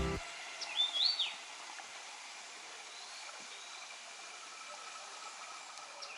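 A bird calling over a steady hiss of outdoor air: a few short whistled notes that rise and fall about a second in, fainter calls near the middle, and another short call near the end.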